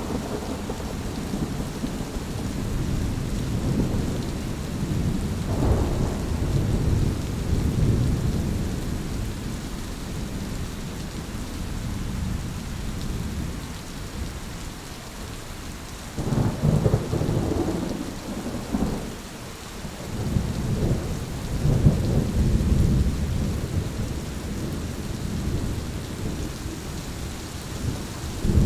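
Thunderstorm: steady rain with thunder rumbling low several times, the louder peals coming about sixteen and twenty-one seconds in.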